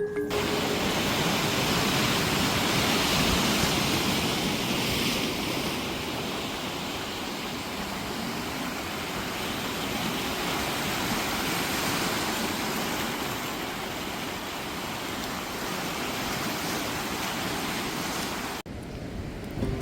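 Steady rushing water noise, like surf or a waterfall, swelling and easing slowly, then cut off abruptly near the end.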